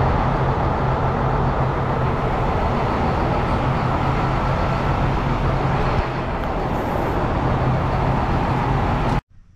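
Meadows circular sawmill running under power, a loud steady mechanical noise with a low hum, cutting off suddenly near the end.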